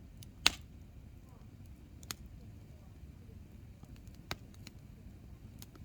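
Hardwood campfire burning, with a sharp loud pop from the firewood about half a second in, then a few smaller cracks over the low steady noise of the flames.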